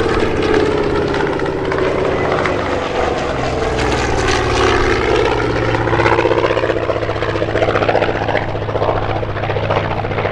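Propeller-driven WWII fighters with big radial piston engines flying past, a loud steady drone with a pulsing propeller beat. The pitch drops as one goes by near the start, and another sweeps past around the middle.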